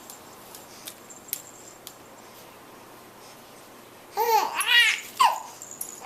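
A baby cooing and squealing to herself: after a quiet stretch with a few faint clicks, a run of high squeals that rise and fall in pitch starts about four seconds in.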